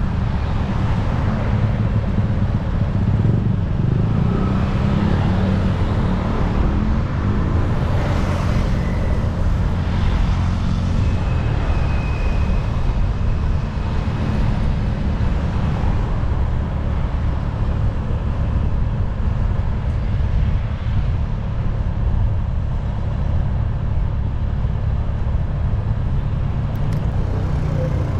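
Steady vehicle noise at a busy railway level crossing, mostly a low engine rumble, with a short high tone about twelve seconds in.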